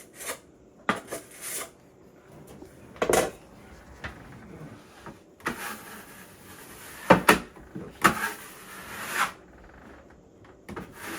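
A wide plastering trowel scraping plaster across a drywall seam to feather it out, in several strokes of about a second each, with a sharp click about seven seconds in.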